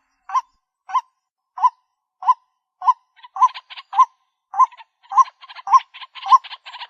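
White-breasted waterhen calling: a steady series of single 'kwak' notes about every 0.6 seconds. From about three seconds in, a quicker stuttering chatter fills the gaps between the notes.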